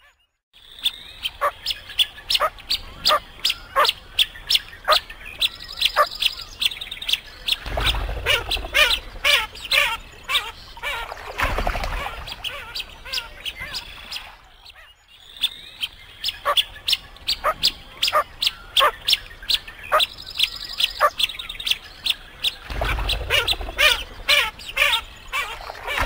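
Birds calling in rapid short, high chirps, several a second. The same sequence of calls seems to repeat after about fifteen seconds.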